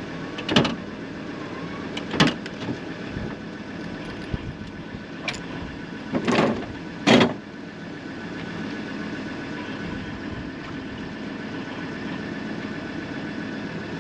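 Steady road and engine noise heard inside a moving car's cabin, with a handful of short knocks in the first half.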